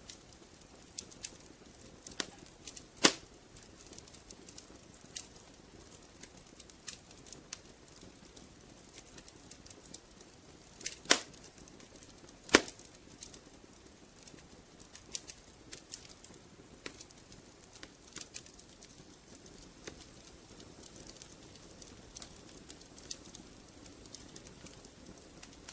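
Wood fire crackling in a fireplace: irregular sharp pops and snaps over a soft steady hiss, with a few louder pops about three, eleven and twelve and a half seconds in.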